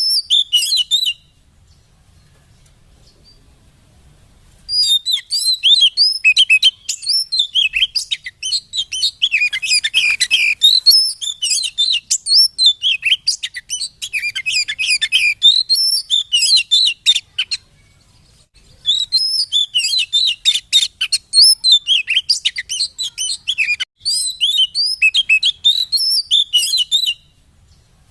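Oriental magpie-robin (kacer) singing a fast, varied stream of chirps and whistles, the kind of song used as a lure to provoke another kacer into answering. It breaks off for a few seconds just after the start and pauses briefly in the middle.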